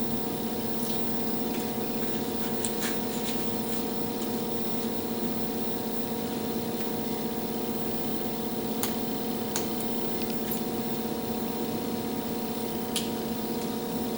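A steady mechanical or electrical hum with several fixed pitches, with a few faint sharp ticks as a razor blade picks cut vinyl off its backing.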